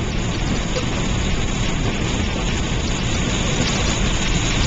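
Steady patter of wet precipitation, a mix of snow and rain that sounds a little like hail, striking a moving car, heard from inside the cabin over the road and engine noise.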